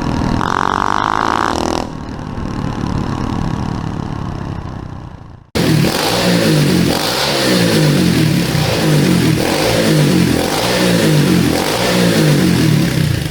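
SSR 125cc pit bike's single-cylinder engine running, fading out about five seconds in. After a sudden cut, a loud engine sound rises and falls in pitch about twice a second, like repeated revving.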